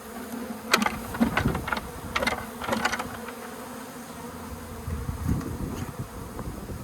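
Honeybee colony buzzing as a steady hum. From about a second in to about three seconds, a quick run of sharp clicks and knocks sounds over it.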